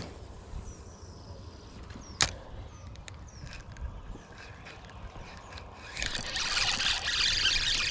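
A sharp knock about two seconds in over a low steady rumble, then from about six seconds a louder run of water splashing as a small bass is brought up to the surface on the line.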